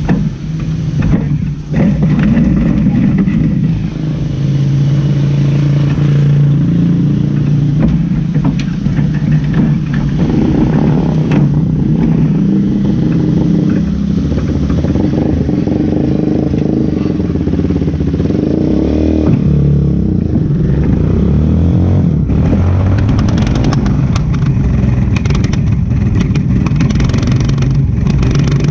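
Race car engine running and revving, its pitch rising and falling. A burst of rising revs comes about two-thirds of the way in, followed by harder running with a rattling clatter.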